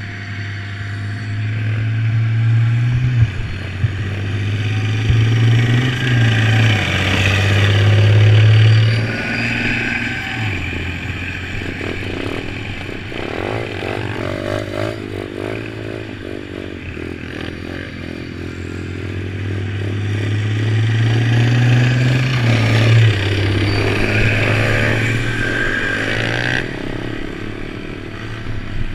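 Pit bike engine running under changing throttle, rising and falling in pitch and loudness, with two longer louder pulls, about eight and about twenty-two seconds in, amid rattling and scraping.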